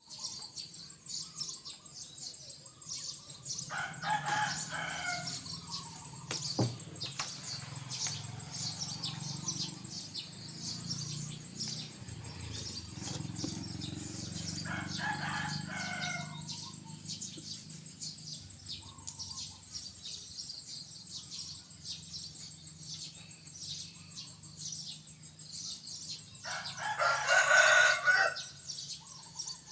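A rooster crowing three times, about ten seconds apart, the last crow the loudest, over a steady high-pitched background chirring.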